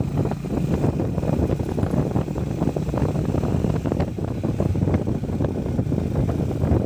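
Honda Highness CB350's single-cylinder engine running on the move, a low uneven rumble.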